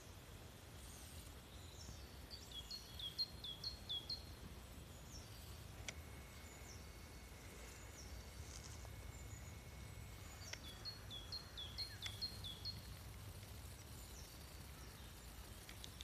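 A songbird singing in woodland: two phrases of about seven quick, high, falling whistled notes each, a few seconds apart, over a low steady outdoor rumble.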